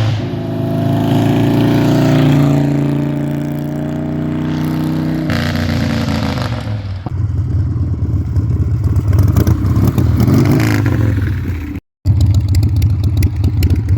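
Harley-Davidson Sportster 1200's V-twin engine running under throttle, its pitch shifting as it revs and drops back about five seconds in. After a sudden break near the end it runs on with a lumpy, pulsing beat.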